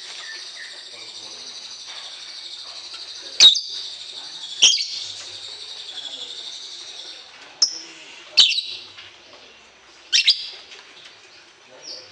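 Songbirds chirping: a steady high twittering chatter with five loud, sharp calls spaced a second or more apart, the chatter thinning out about halfway through.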